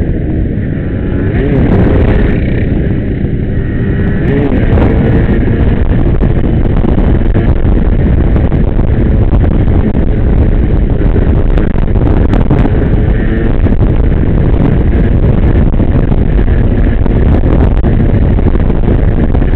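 Motorcycle engines at high revs, their pitch gliding up and down in the first few seconds, then a steady loud wash of engine noise with heavy wind buffeting the microphone.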